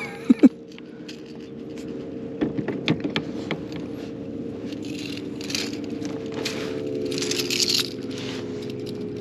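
Clicks, rattles and scrapes from a just-caught bass and the lure's hooks being handled in a kayak, with short splashy bursts, over a steady low hum.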